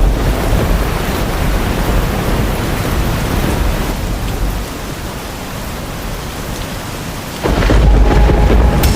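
Heavy rain and thunder in a storm: a loud, steady downpour over a deep rumble, which eases for a few seconds and then cuts abruptly to louder rumbling about seven and a half seconds in.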